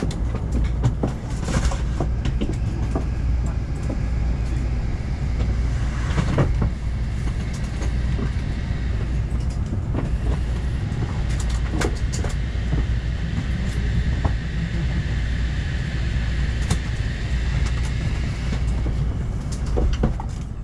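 Interior running noise of a West Kyushu Shinkansen Kamome (N700S) train slowing into a station: a steady low rumble with scattered clicks and knocks from the wheels on the track. A faint high whine grows in the later part.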